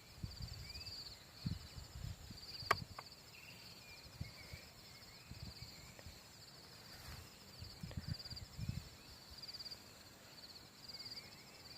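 Insects chirping in repeated short, high pulsed trills, with scattered low thumps and one sharp click a little under three seconds in.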